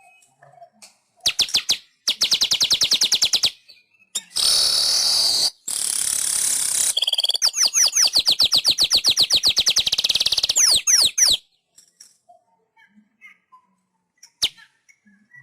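Weaver bird (manyar) singing: a fast dry ticking trill, then a harsh wheezing buzz, then a second long ticking trill that ends in a few quick down-slurred notes.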